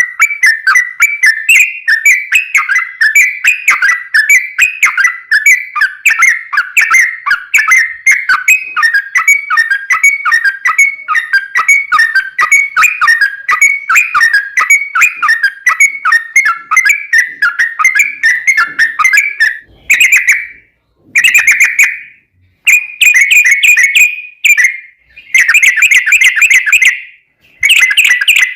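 Yellow-vented bulbul (trucukan) singing a long, rapid run of chattering, bubbling notes. About twenty seconds in, the run breaks into several short bursts with brief gaps between them.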